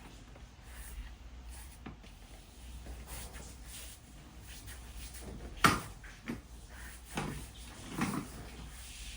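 Four separate knocks and clatters of hard objects being handled and set down, the loudest about two thirds of the way through, over a low steady room background.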